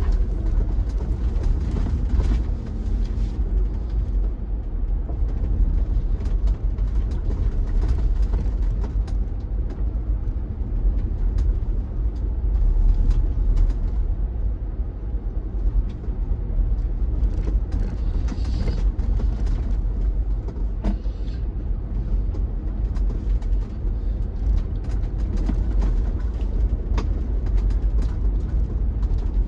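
A vehicle driving up a snow-covered mountain road: a steady low rumble with frequent small knocks and crackles throughout.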